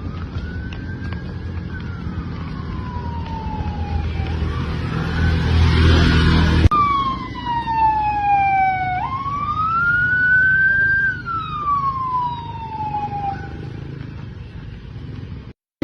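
Emergency vehicle siren wailing, rising and falling slowly over a low engine and traffic rumble. Partway through it cuts abruptly to a louder, clearer siren wail.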